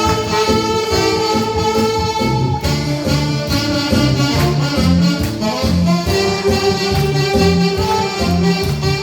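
Saxophones playing a Korean trot melody in long held notes over an accompaniment with a steady beat.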